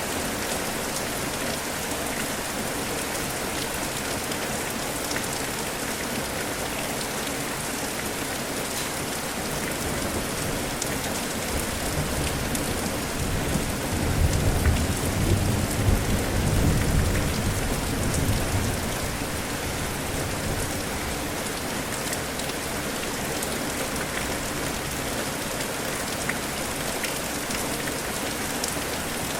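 Steady rain falling and pattering on surfaces. About halfway through, a low roll of thunder rumbles for several seconds, then fades back into the rain.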